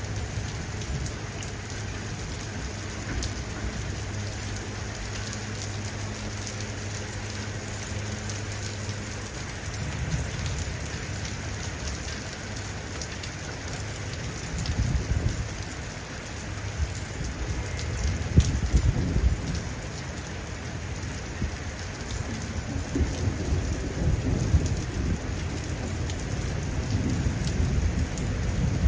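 Steady rain hissing with close, crisp raindrop ticks. Low rolls of thunder swell up from about a third of the way in, the strongest about two-thirds through and again near the end.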